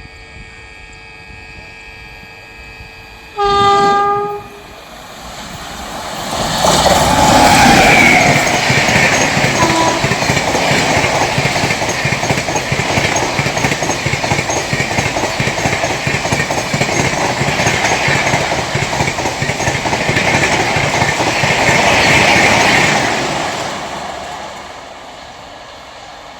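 An Indian Railways train sounds its horn once for about a second, then passes at speed: the rolling noise builds over a couple of seconds, stays loud for about fifteen seconds and fades away near the end.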